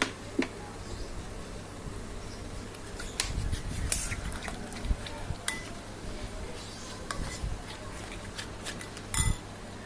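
A spoon stirring a runny flour batter in a bowl, with scattered clinks of the spoon against the bowl.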